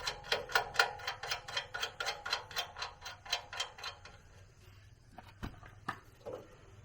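A rapid, even series of sharp taps, about four or five a second, that stops about four seconds in, followed by two single knocks.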